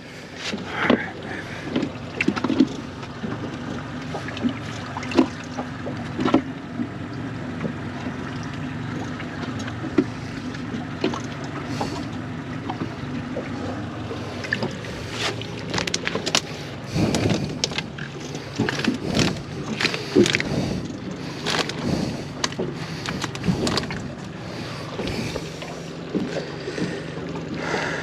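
A steady low motor hum aboard a small fishing boat at sea, with scattered knocks and clicks from gear being handled on deck.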